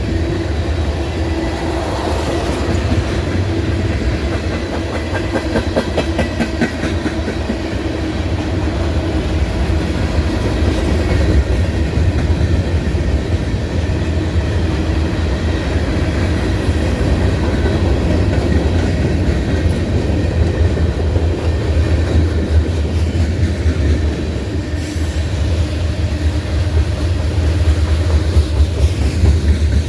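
Train rolling past with a continuous loud low rumble from its cars, with rapid clicking of wheels over rail joints for a couple of seconds around five seconds in.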